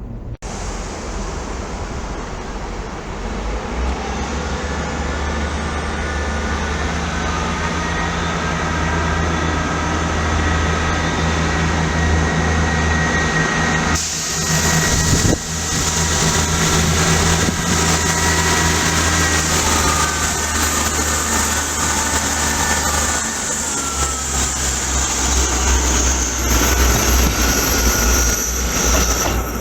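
A train running past close by on the tracks: a loud, steady rumble with several high whining tones above it, and a high hiss or squeal joining suddenly about halfway through.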